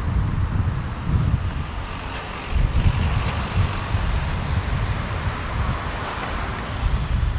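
Sea waves washing onto a sandy beach, swelling and fading, with wind buffeting the microphone in low gusts.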